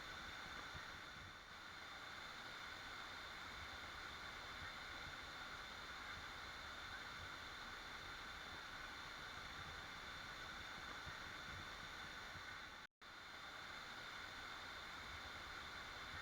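Waterfall, water falling and rushing in a steady, even hiss, with one split-second dropout to silence late on.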